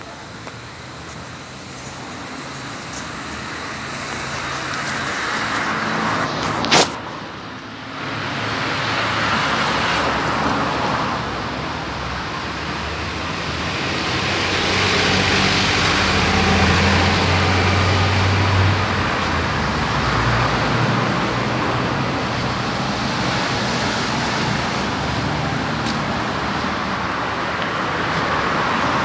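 Road traffic: vehicles passing one after another, the noise swelling and fading, with a low engine hum in the middle and a single sharp click about seven seconds in.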